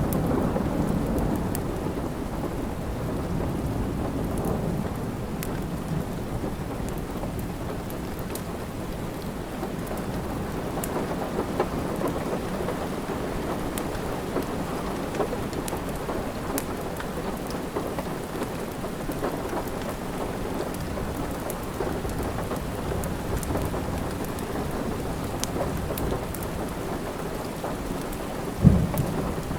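Steady rain with a low rumble of thunder dying away over the first few seconds, and a fireplace crackling, with sharp pops scattered throughout. A single low thump sounds about a second before the end.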